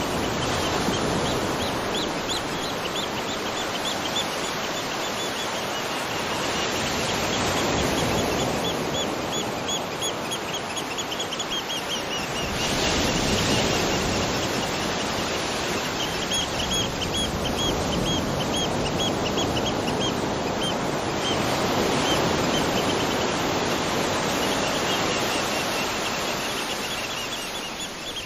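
Waterfall: a steady rush of falling water. Over it, several runs of rapid, high-pitched chirps come and go, each lasting a few seconds.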